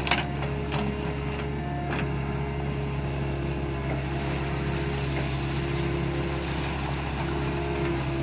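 Hitachi excavator's diesel engine running steadily with a held hydraulic whine, and a few sharp knocks in the first two seconds.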